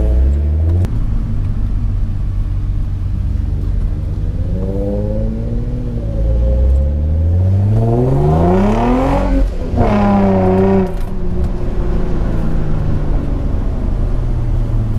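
Infiniti G35's V6 engine and exhaust under way: a steady drone that climbs in pitch for a few seconds past the middle, drops sharply, rises briefly again and then settles back to a steady drone.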